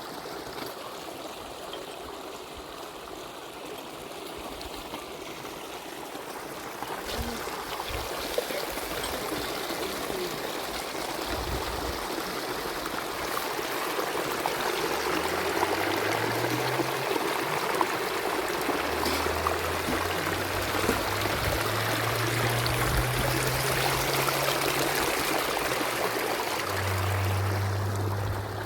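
Spring water running and trickling steadily. It grows louder over the first dozen seconds, then holds.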